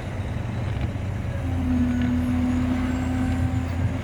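Heavy diesel equipment, an excavator and a stuck loaded dump truck, running hard under load. A steady whine comes in about a second and a half in as the sound gets a little louder.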